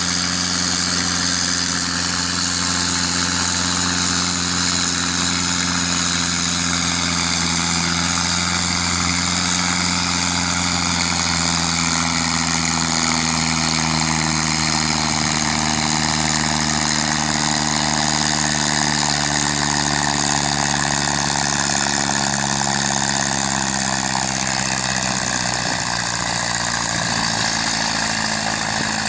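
Tractor engine running steadily at a constant load during a tractor pull, its pitch sagging gradually through the second half.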